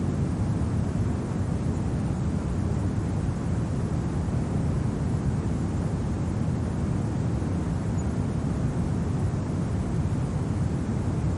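Steady low rumbling wind, even throughout, with no gusts or separate events standing out.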